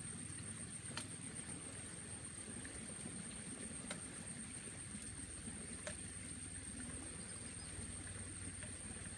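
Outdoor ambience: insects holding a steady high-pitched drone over a low rumble, with a few sharp clicks about one, four and six seconds in.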